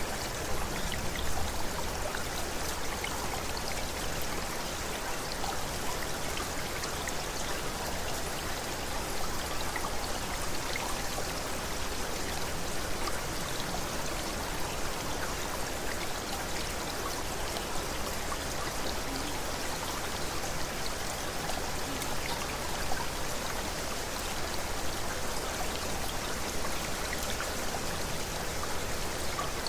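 Shallow mountain river babbling steadily over stones, an even rush of water with many small splashes and trickles.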